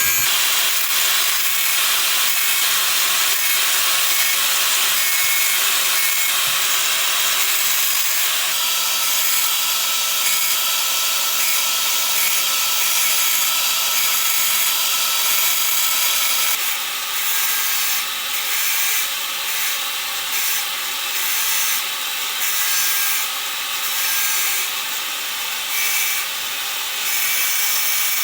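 A power tool working a surface abrasively, a steady hiss over a faint motor whine. In the second half the hiss comes and goes in strokes about once a second.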